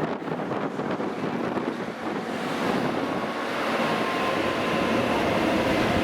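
Sanyo Shinkansen train approaching along the platform: a rushing running noise with a faint steady whine, growing steadily louder from about two seconds in.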